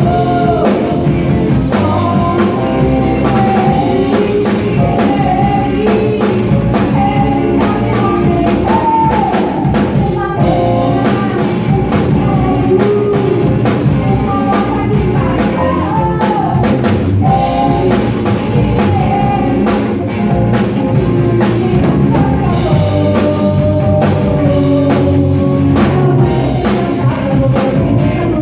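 Live rock band playing a song: a singer over drum kit and electric guitar.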